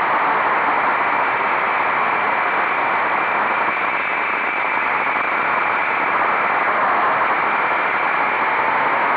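Steady rushing wind noise on an onboard microphone of a motorcycle riding at speed, with the engine buried under it, dipping slightly about four seconds in.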